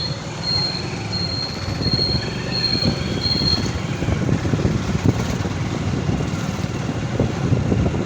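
Wind rushing over the microphone and road and engine rumble from a motorcycle being ridden, with a thin high beep repeated several times in the first few seconds.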